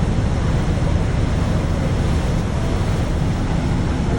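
Steady wind rumble on the microphone, heaviest in the low end, with an even hiss above it.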